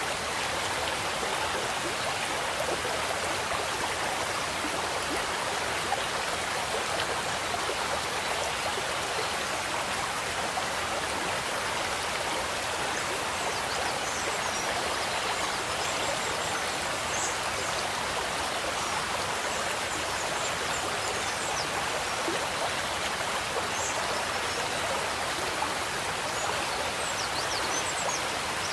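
Water of a koi pond running and splashing, a steady unbroken rush. Faint short high chirps come in from about halfway through.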